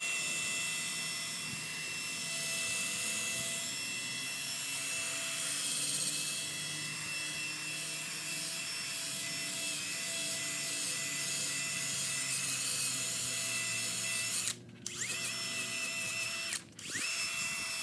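Power drill running at full speed, spinning a 1500-grit sanding pad over a wet plastic headlight lens: a steady motor whine with the pad scrubbing underneath. Near the end it stops briefly and starts again twice.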